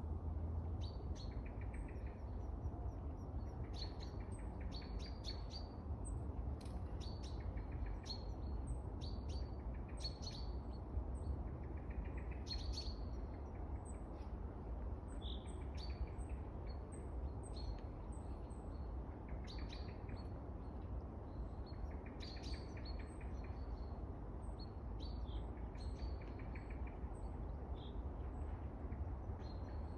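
Small birds chirping outdoors: short, high calls repeating every second or so, with a softer buzzing trill every few seconds, over a steady low background noise.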